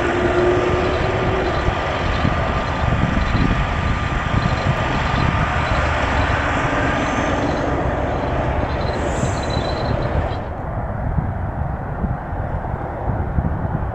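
Boeing 787 Dreamliner jet engines running: a steady loud roar with a high whine. The high whine falls away sharply about ten and a half seconds in, leaving the lower roar.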